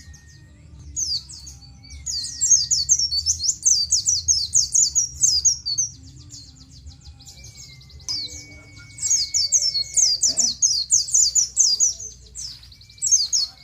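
Pleci (white-eye) singing a ngalas-style song: two long bouts of fast, high 'ciet ciet' chirps strung tightly together, with a short burst near the end. A faint long whistled tone sounds underneath at times.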